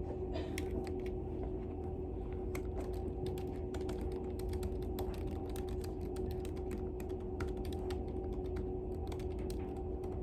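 Typing on a computer keyboard: a stream of quick, irregular key clicks over a steady low hum.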